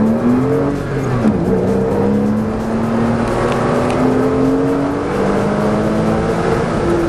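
Car engine heard from inside the cabin under acceleration, its pitch dropping sharply about a second in and then climbing slowly and steadily again, over road and tyre noise.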